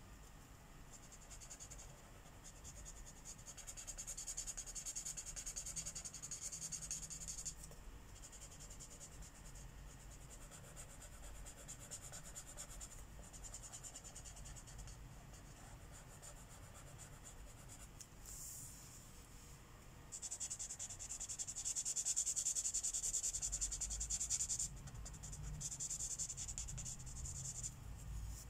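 Felt-tip marker colouring in on paper: quick back-and-forth strokes of the tip scratching across the page. It comes in stretches with brief pauses, and is loudest about two thirds of the way through.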